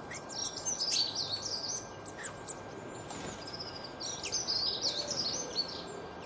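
Songbirds singing in quick, chirping phrases over a steady background hiss, with one bout of song early on and another about four seconds in.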